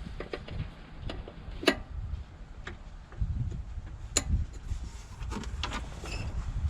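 Hand tools and parts handled while bleeding the front left brake: a few scattered sharp clicks and clinks, two of them louder, over low rustling and handling noise.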